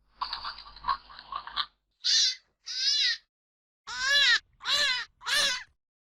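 Hare calling: a rough, buzzy stretch of about a second and a half, then five short, high cries, each arching and falling in pitch.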